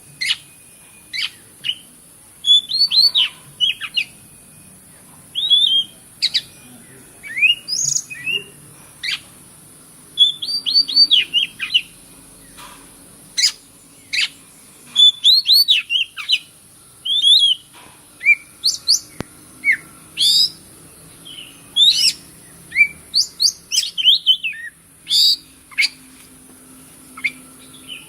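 Oriental magpie-robin singing vigorously: short, separate whistled phrases and chirps that sweep up and down in pitch, with brief gaps between them, over a steady high hiss.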